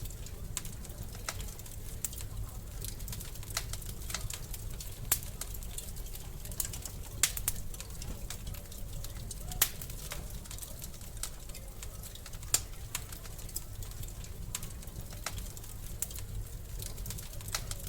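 Wood fire crackling in a fireplace: irregular sharp pops and snaps over a steady low rumble, with a few louder pops scattered through.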